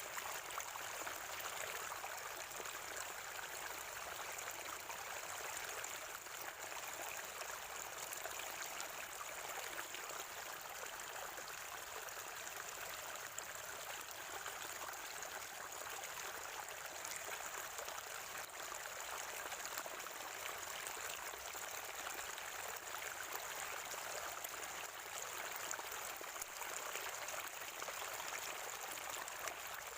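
Spring water gurgling and trickling steadily in a small stream.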